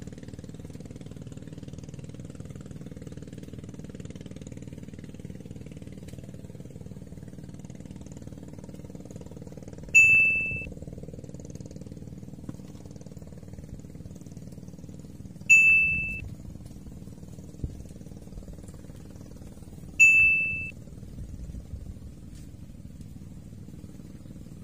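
Three identical bright 'ding' chimes, spaced about five seconds apart, each ringing briefly and dying away: an added alert effect marking a bite on a rod tip. A steady low motor hum runs underneath.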